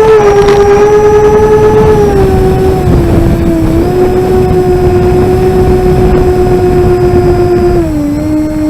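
SkyMule RC model plane's electric motor and propeller whining steadily, the pitch stepping down, back up, then down again near the end as the throttle changes, with heavy wind rumble on the on-board microphone.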